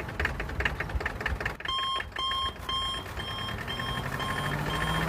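Small motor of a home-built mini tractor running with a fast, even rattle. From under two seconds in, a repeating electronic beep sounds about twice a second over it.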